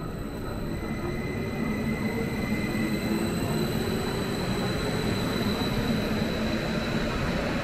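Train running through the station: a steady low rumble that grows louder over the first couple of seconds, with a thin high whine above it.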